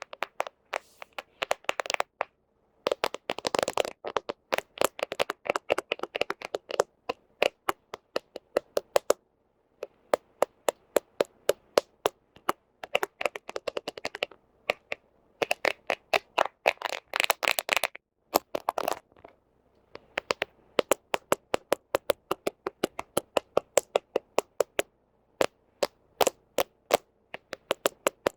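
Fingernails tapping and scratching on a smartphone camera: quick runs of sharp clicks, some denser scratchy flurries, broken by short pauses.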